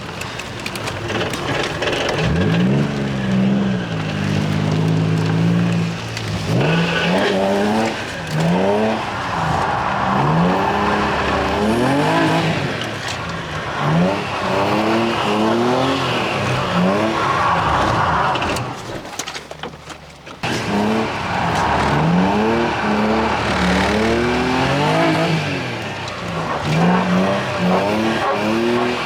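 Car engine being revved hard during a drift run, its pitch climbing and falling every second or two as the throttle is worked on and off. There is a brief lull in the engine a little after halfway before it picks up again.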